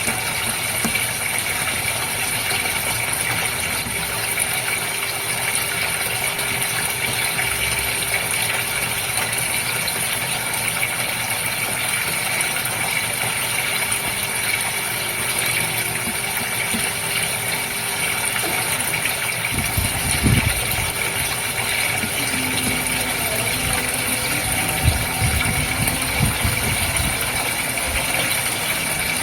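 Goldfish tank water running steadily with a constant pump hum. A few low thumps come about two-thirds of the way through and again a little later.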